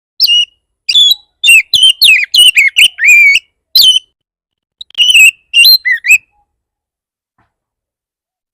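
Oriental magpie-robin (kacer) singing a fierce, agitated song of rapid whistled notes and slurred glides, in two quick runs with a short break between.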